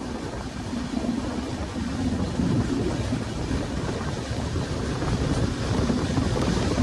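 Steady rumble and rushing wind of a moving train.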